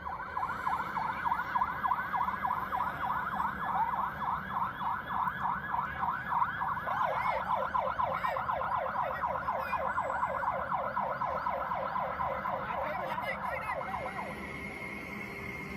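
Emergency vehicle siren in a rapid yelp, its pitch sweeping up and down several times a second, dying away near the end.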